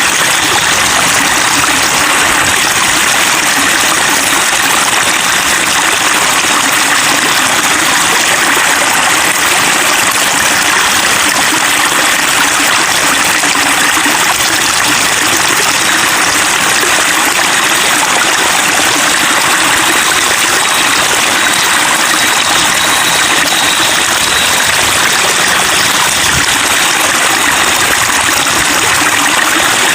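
Running water babbling steadily, a continuous even rush and trickle.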